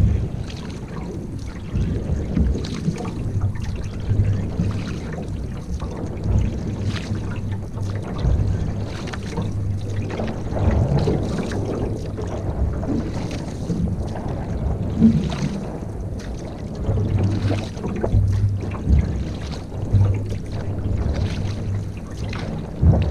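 Canoe moving on the water under paddle, with sharp splashes or knocks every second or two over a low wind rumble on the microphone.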